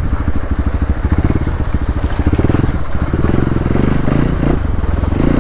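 Hero Xpulse 200 motorcycle's single-cylinder engine running loud at low revs, its rapid firing pulses shifting a little as the throttle changes.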